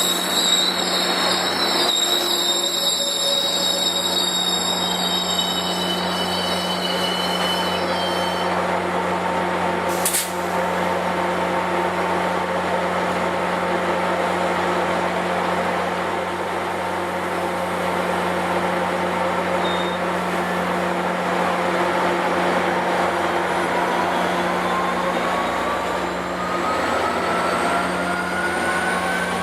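Passenger train at a station: wheel squeal that fades out over the first several seconds, over a steady low locomotive engine hum. There is a sharp click about ten seconds in, and a rising whine near the end.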